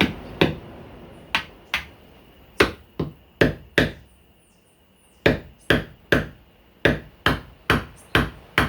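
Hammer striking a whole coconut, about sixteen sharp blows in two quick runs with a short pause about halfway. The blows are working to weaken the shell, which has not yet cracked.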